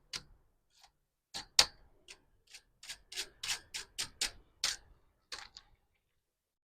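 Queen excluder being set onto the hive box: a run of sharp, irregular clicks and light knocks that stops about a second before the end.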